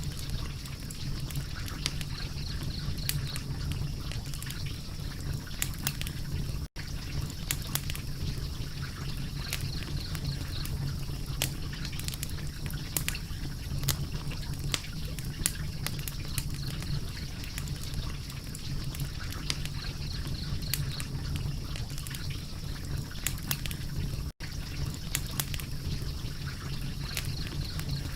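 Wood fire crackling: frequent sharp pops and snaps over a steady low rumble and hiss. The sound cuts out for an instant twice.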